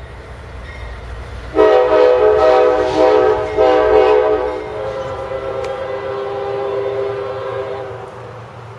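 A freight locomotive's five-chime Nathan K5HL air horn sounds a loud chord about a second and a half in, with two brief breaks. It then carries on quieter and a little lower in pitch, fading out near the end, over the low rumble of the passing train.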